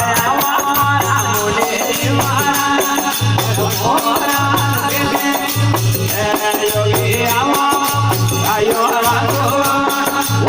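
Instrumental intro of a Rajasthani devotional folk bhajan: a melody line rising and falling over a steady low bass note that repeats about once a second, with a constant shaker-like rattle of small percussion.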